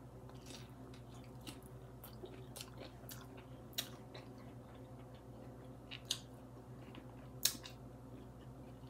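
A person chewing a mouthful of rice paper roll, with soft wet mouth sounds and a few short sharp clicks at uneven intervals, over a faint steady low hum.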